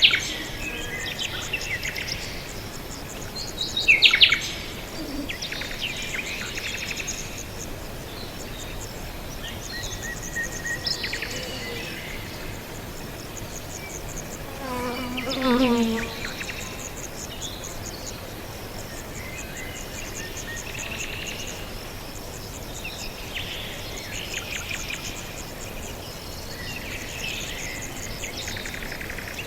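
Several wild birds chirping and trilling in short, scattered phrases, with a steady high insect buzz underneath. The loudest chirps come at the very start and about 4 s in, and about halfway through a lower, falling sound with several stacked tones stands out.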